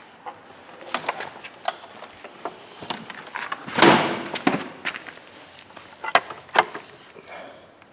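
Scattered clicks and knocks of something being handled, with a louder scraping rustle about four seconds in.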